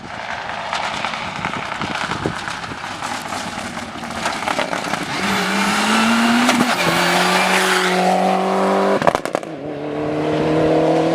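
Rally car engine under hard acceleration: a loud rushing, crackling noise at first, then the engine note climbing and dropping at each of two upshifts.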